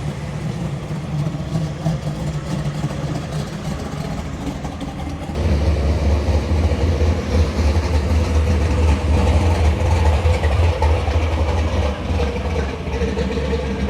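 A car engine running at idle, with a steady low rumble that becomes louder and deeper about five seconds in.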